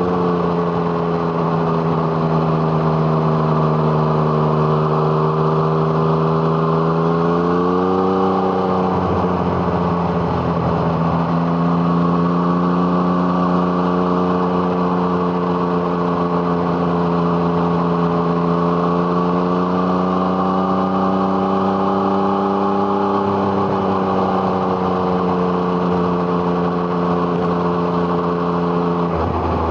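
2017 Yamaha MT-09's 847 cc inline three-cylinder engine through an Arrow Thunder exhaust, running steadily under throttle while riding, its pitch rising and falling gently. The note breaks briefly about eight seconds in and cuts out sharply for a moment near the end.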